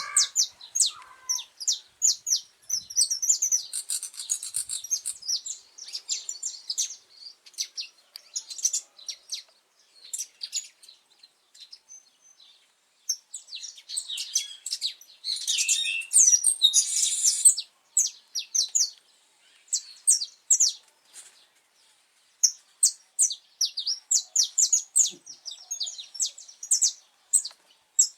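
Saffron finch singing: phrases of quick, high chirps repeated with short pauses, with a buzzy trill about two-thirds of the way through.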